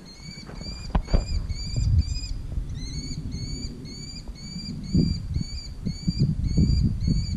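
A bird repeats a short, high, upslurred chirp in a fast, even series of about two or three a second, with one brief pause about two and a half seconds in. Low thumps of footsteps on grass and some rumble sit underneath.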